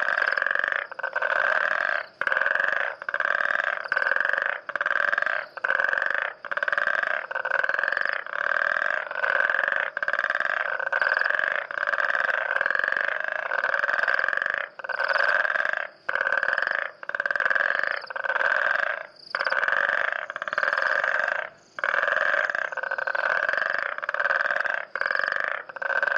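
Chorus of coquí frogs calling loudly in the rainforest, pulsing evenly about once a second.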